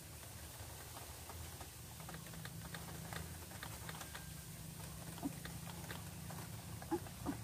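White-breasted waterhen calling: a run of quick dry clicks, then a few short low croaks near the end.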